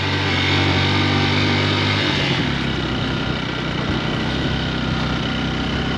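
Motorcycle engine running under way, with wind and road noise around it; the engine note drops lower about two seconds in.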